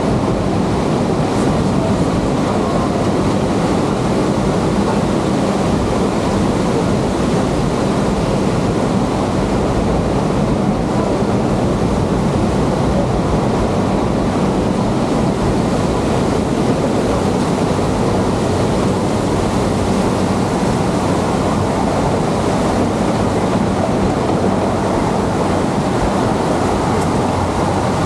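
Georgetown Loop Railroad excursion train rolling along the track: a steady, unbroken rolling noise of the passenger cars on the rails, with a low hum underneath.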